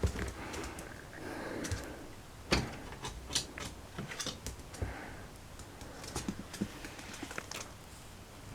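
Scattered small clicks and knocks at an irregular pace, with one sharper knock about two and a half seconds in.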